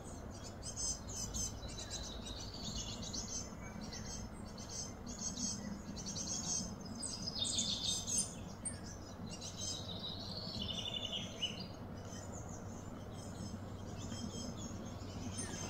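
Birds chirping and calling repeatedly in short, quick phrases and trills, over a steady low background hum.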